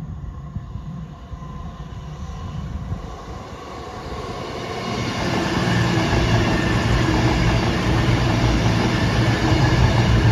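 Avanti West Coast Class 221 Super Voyager diesel-electric multiple unit approaching and passing, its underfloor diesel engines droning over the rumble of wheels on the rails. It grows louder through the first half, then stays loud from about halfway as the cars go by.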